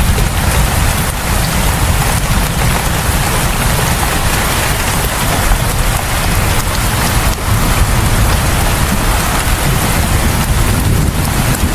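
Heavy, steady rain falling and pattering on surfaces, with a deep rumble underneath.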